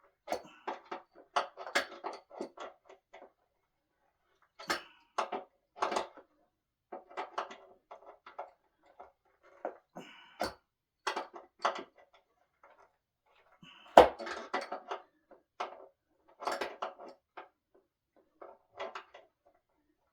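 Irregular clinks, rattles and knocks of hardware and wooden parts being handled during dining-table assembly, with one sharper, louder knock about 14 seconds in.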